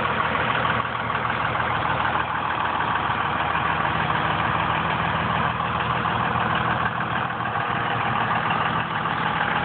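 Dodge 2500's 5.9 Cummins straight-six turbo diesel idling steadily.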